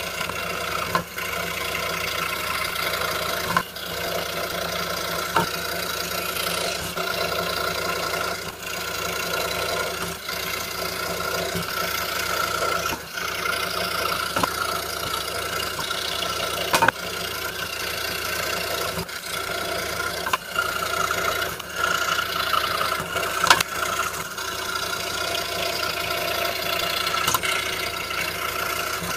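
A 26" RBI Hawk scroll saw running steadily, its 5/0 skip-tooth blade cutting Baltic birch plywood, with brief dips and clicks scattered throughout.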